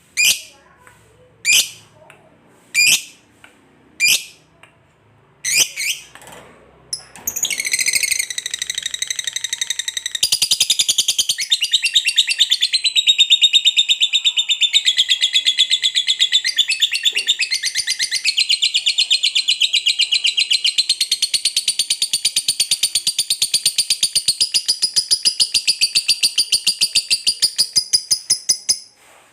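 Lovebird giving single sharp calls about every second and a half, then breaking into a long, rapid chattering trill (ngekek panjang) that runs about twenty seconds before stopping near the end.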